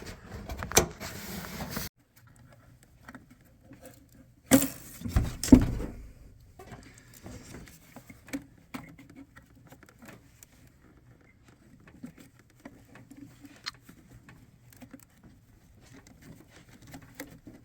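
Handling noises from fitting a rubber vacuum hose and its connectors by hand: scattered clicks, rustles and scrapes, with a short cluster of louder knocks about five seconds in, then only faint ticks.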